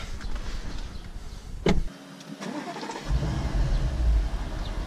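Audi S7's twin-turbo V8 starting, heard from inside the cabin: a click, a short quiet lull, then about three seconds in the engine catches and settles into a loud, low rumble.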